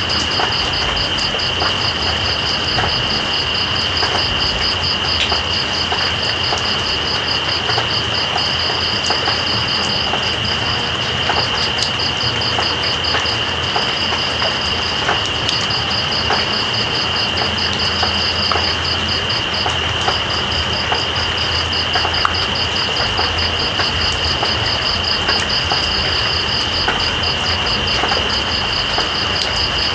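Steady rain hiss with scattered drop ticks, under night insects: one continuous high-pitched buzz and a rapid pulsing trill that breaks off briefly a few times.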